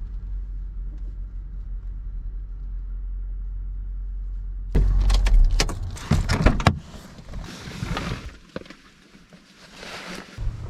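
Low steady rumble of a car, then from about five seconds in a quick run of clicks, knocks and rustling, with a quieter stretch and a few more knocks near the end.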